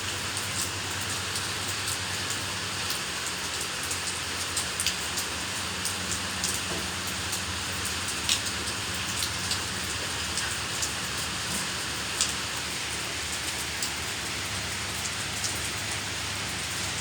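Steady rain falling and pattering on surfaces, with scattered sharper drop ticks.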